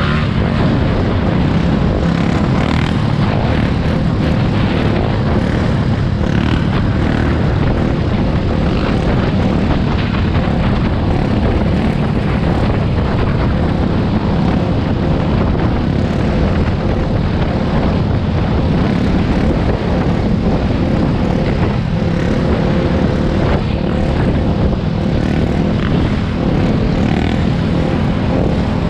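A dirt bike engine running steadily under way, buried in heavy wind rumble on the microphone.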